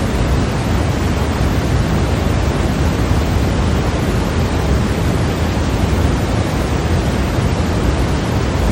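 Steady electronically generated white noise for sleep: an even, unchanging hiss, fuller in the low end, with no rhythm or breaks.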